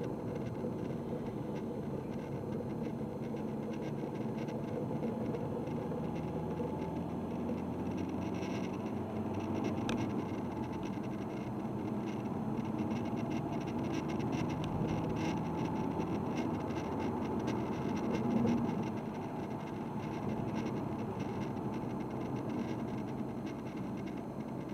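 Diesel car engine running steadily, its pitch drifting slowly up and down.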